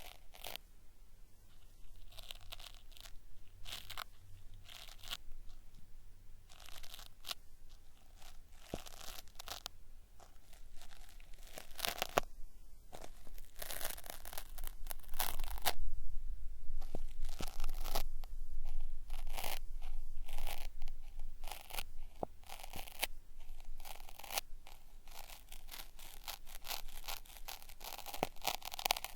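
Cotton swab rubbed against a binaural microphone's ear, an ASMR ear-cleaning sound made to sound like something being peeled off: irregular crackly, ripping rubs, loudest around the middle.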